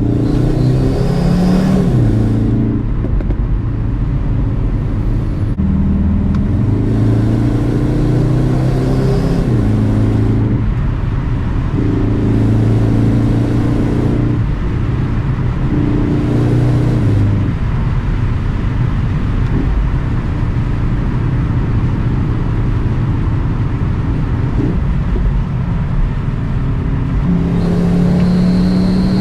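CUPRA Formentor VZ's turbocharged 2.0-litre four-cylinder engine under hard acceleration, its pitch climbing through each gear and dropping sharply at each upshift several times over. In between is a steadier stretch at speed, with constant tyre and wind noise underneath.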